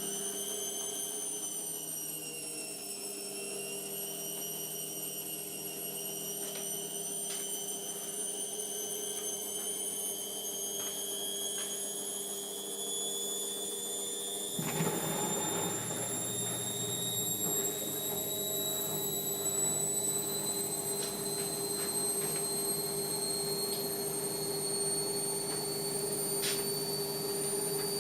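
Indesit washing machine's drum motor spinning up on a spin phase of its cottons cycle: a high whine that keeps climbing slowly in pitch. About halfway through, a low rumbling noise joins in under it.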